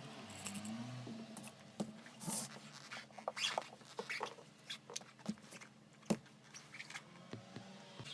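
Irregular light clicks and taps, a few a second with some louder ones, like small hard parts being handled.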